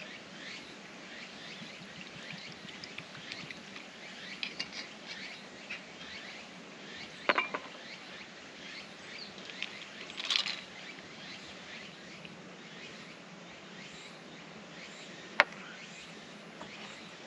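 Birds chirping over a steady outdoor hum, with a double knock about seven seconds in, a brief rustle-like burst around ten seconds, and a single sharp click, the loudest sound, near fifteen seconds.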